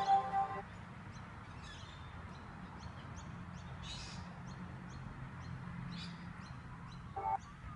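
Small birds chirping: quick, short high chirps repeating about twice a second, over a steady low hum. A short tone sounds near the end.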